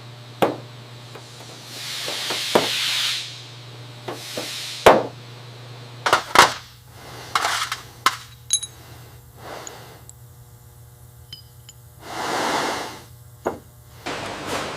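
Metal tools and parts clinking and knocking against metal in a series of sharp, irregular hits, with two swelling hisses, one about two seconds in and one near the end. A low steady hum stops about halfway through.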